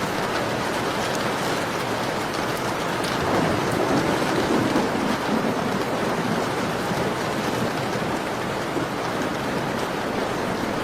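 Steady falling rain that briefly grows heavier a few seconds in, with scattered small crackles from a wood fire in a fireplace.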